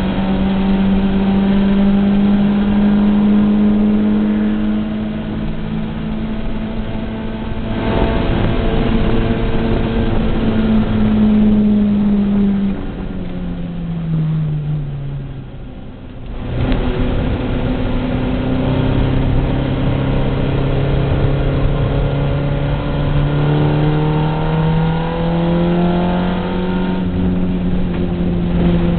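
Race car's engine heard from inside the cabin, held at high revs for the first twelve seconds or so, then falling away and going briefly quieter about halfway through as the car slows for a corner. It then pulls up again, the pitch climbing steadily with a gear change near the end, over steady road and wind noise.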